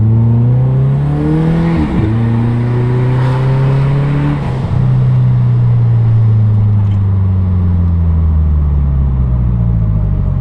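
Compound-turbo Subaru flat-four engine heard from inside the cabin, accelerating with its pitch climbing and dropping at a gear change about two seconds in and again about four and a half seconds in, with a rushing sound over the engine during the pulls. It then eases off, the engine note falling slowly.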